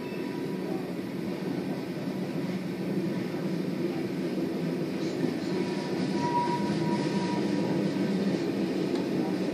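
Tank cars of an oil train rolling past, a steady rumble of steel wheels on rail. A faint high tone runs under it and sharpens briefly about six seconds in.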